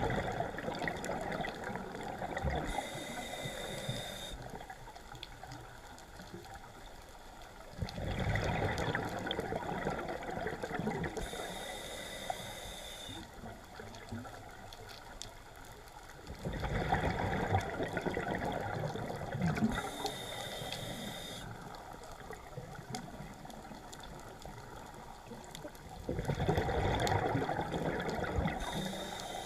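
A scuba diver's breathing heard underwater: a short hiss from the regulator on each inhale, then a loud gush of exhaled bubbles, about every eight or nine seconds, four breaths in all.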